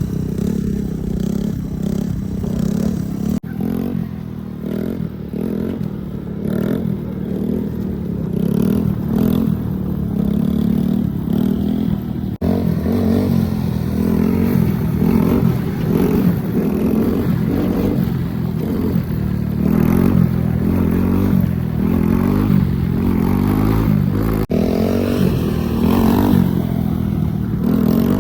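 Small 125 cc single-cylinder motorcycle engine revving up and down over and over as the bike is pulled into wheelies. The sound cuts abruptly three times where clips are joined.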